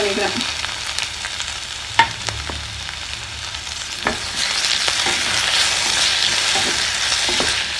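Chopped tomatoes, shallots and curry leaves sizzling in hot oil in a stainless-steel kadai while being stirred with a wooden spatula, which knocks against the pan twice. The sizzle grows louder about halfway through as the tomatoes are spread into the oil.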